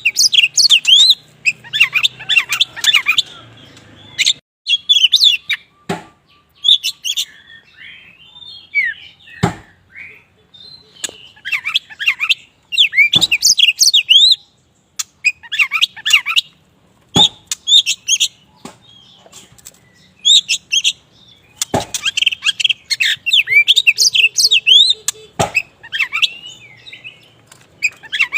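Kacer wulung (black Oriental magpie-robin) singing in bursts of rapid chirps and whistles with short pauses between phrases, in full song. A few sharp clicks fall between the phrases.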